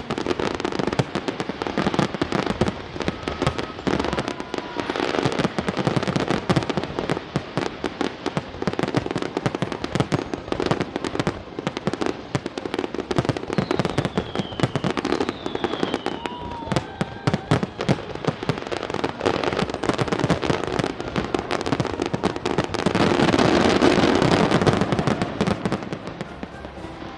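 Aerial fireworks going off in a dense, continuous run of bangs and crackling, with a few short whistles, building to a louder swell near the end.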